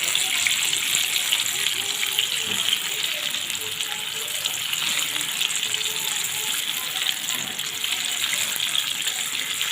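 Chicken pieces deep-frying in hot oil: a steady sizzling hiss with fine crackling throughout.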